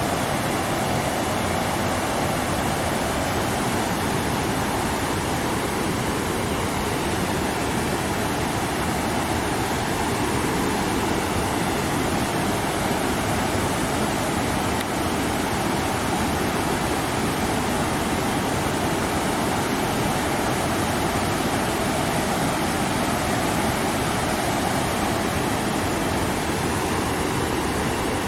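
Waterfall pouring steadily, a loud, unbroken rush of falling water.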